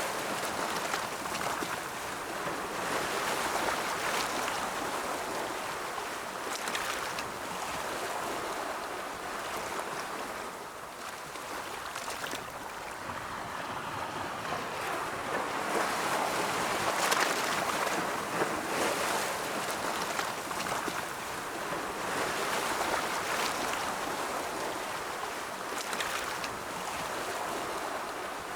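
Ocean waves breaking and washing on a shore in a continuous rush of surf that swells and ebbs every few seconds.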